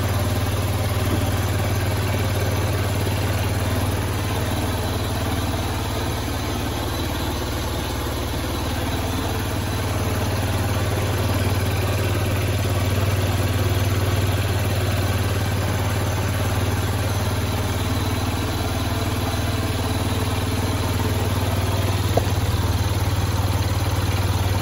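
Yamaha Vox 50's 49 cc four-stroke single-cylinder engine idling steadily, freshly rebuilt with a reassembled cylinder, piston and cylinder head, running after its first start.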